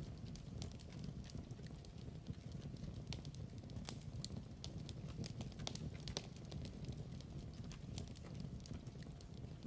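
Log fire crackling in a fireplace: irregular sharp pops and snaps, a few a second, over a steady low rumble of the flames.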